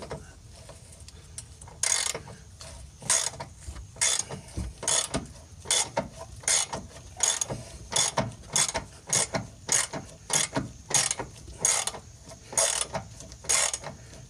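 Hand socket ratchet clicking in short bursts, about one and a half strokes a second, starting about two seconds in, as it backs out a sway bar bushing bracket bolt.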